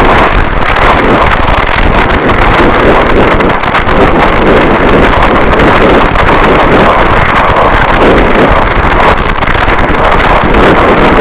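Harsh noise wall: a dense wall of distorted static, very loud and unchanging, with a churning texture and no rhythm or pitch.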